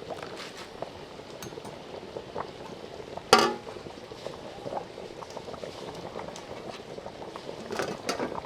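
Curry gravy bubbling in a pot, with many small pops. A single loud clack, like a utensil against the pot, comes about three seconds in, and a few lighter knocks come near the end.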